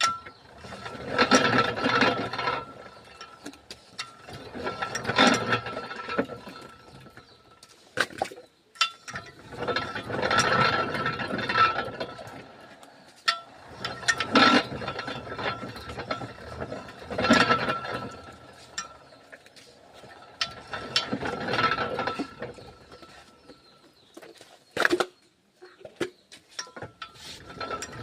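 Geared rubber sheet roller mill running in spells of a few seconds, its gears turning with a steady high whine, with clanks and clicks in the pauses between passes.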